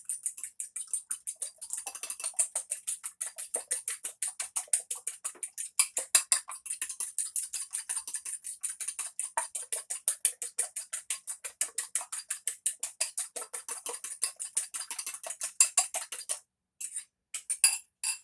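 An egg and vanilla being beaten by hand in a mixing bowl, the utensil clinking against the bowl in a fast, even rhythm of about five or six strokes a second. The beating stops about 16 seconds in, and a few scattered taps follow near the end.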